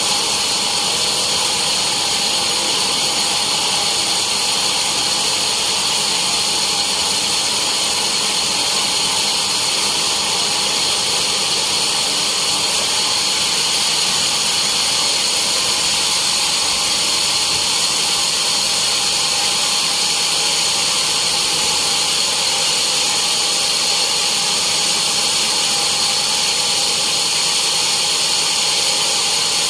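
Sawmill saw running steadily through a teak log, with a high, even whine.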